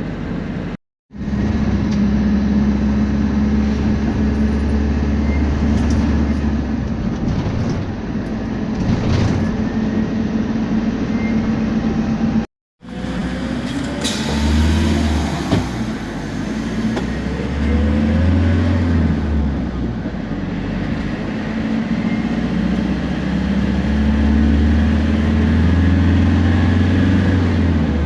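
Temsa Prestij SX midibus under way: its diesel engine runs with a steady low drone, and a thin whine from the turbo and differential rises a few times in the middle. The sound cuts out completely twice, briefly.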